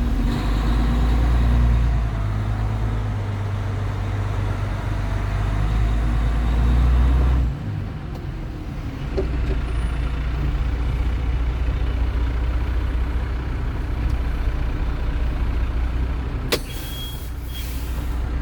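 Western Star W4700 truck's diesel engine running with a heavy low rumble, loudest for the first seven seconds or so, dipping sharply and then settling into a steady run. A click comes near the end, after which it runs a little quieter.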